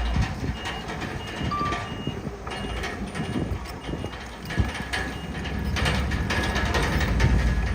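Heavy earthmoving machinery: a diesel engine running with steady metallic clanking, like a crawler's steel tracks. Over it, a reversing alarm beeps about twice a second for the first five seconds or so. The clatter grows louder near the end.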